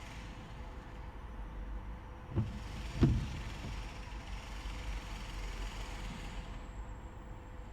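Car driving slowly in city traffic: a steady low rumble of engine and road noise, with two dull thumps about two and a half and three seconds in, the second the louder.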